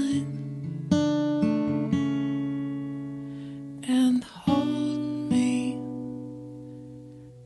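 Acoustic guitar in an instrumental passage: a chord strummed about a second in rings out and fades, then a quick strum around four seconds rings and slowly dies away.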